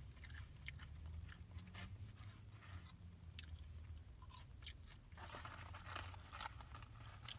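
Quiet close-miked chewing and mouth sounds of someone finishing a chicken nugget, with scattered faint clicks and a busier patch of chewing about five to six and a half seconds in, over a faint steady low hum.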